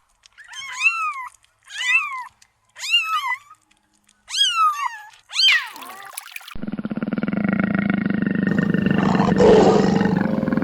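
A cat meowing five times, each call a short rise and fall in pitch. About six and a half seconds in, a low, rough, pulsing growl starts suddenly and continues.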